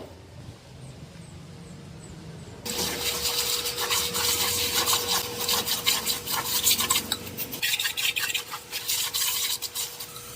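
Rough scrubbing and rubbing in many quick strokes during a dirt bike wash, starting suddenly about three seconds in and stopping near the end, with a faint steady hum underneath.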